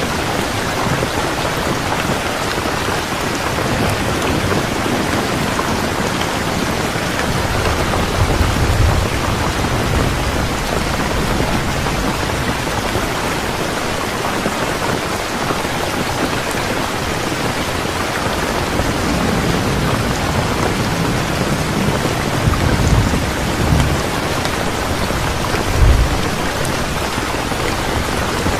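Steady rain falling, with low rolls of thunder rumbling in a few times, the sharpest near the end.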